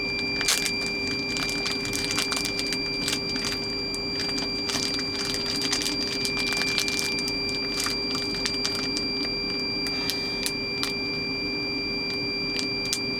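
Plastic zip-top bags and food packaging crinkling and rustling in scattered short crackles as raw chicken is bagged by hand, over a steady electrical hum with a faint high whine.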